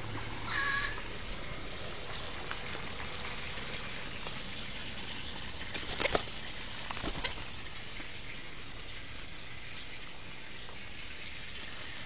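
A bird's short honking call just under a second in, over a steady rushing background noise, with a brief sharp sound about six seconds in and a smaller one about a second later.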